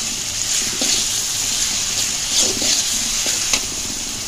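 Chopped onion and garlic paste sizzling in hot oil, stirred with a metal spatula that scrapes and clicks against the pot several times.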